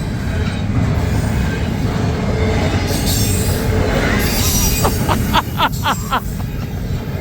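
Double-stack intermodal freight cars rolling past with a steady, loud wheel-and-rail rumble. About five seconds in comes a quick run of about six short, high wheel squeals.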